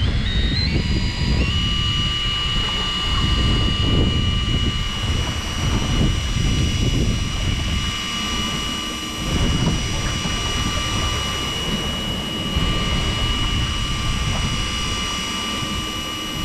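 Fishing boat's engine speeding up, its whine stepping up in pitch over the first second or two and then holding steady at cruising speed, with wind buffeting the microphone.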